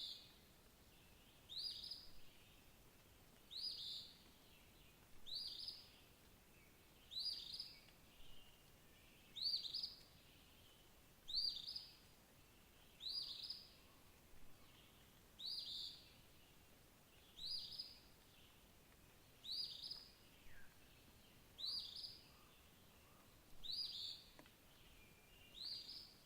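A songbird singing one short, high-pitched phrase over and over, about once every two seconds, above a quiet outdoor background.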